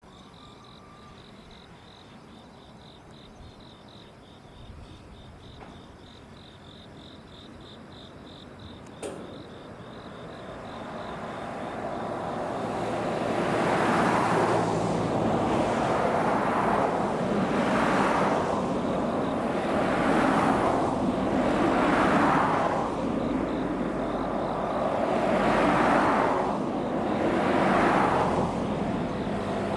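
JR West 87 series Twilight Express Mizukaze, a ten-car diesel-hybrid cruise train, approaching. Its running noise grows from about ten seconds in and stays loud, swelling and easing about every two seconds. Before that there is only a faint, high pulsing trill over quiet surroundings.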